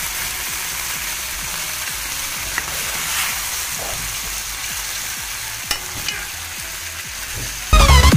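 Chicken in spiced gravy sizzling as it fries, a steady hiss with a few small clicks and pops. Electronic dance music comes in suddenly near the end.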